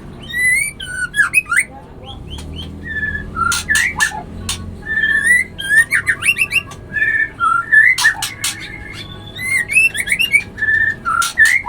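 A bird singing in bursts of varied whistled phrases, with quick rising and falling notes and sharp high clicks.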